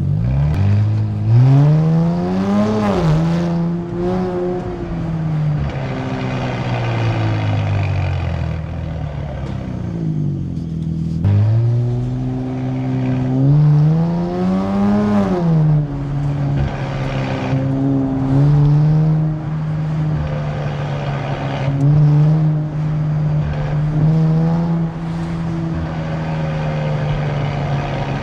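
Nissan Z Nismo's twin-turbo 3.0-litre V6 through a Nismo Track exhaust, pulling hard twice. The revs climb to a peak about three seconds in and again about fifteen seconds in, and fall away slowly after each. The engine then settles into a steady cruise with small rises and dips in revs.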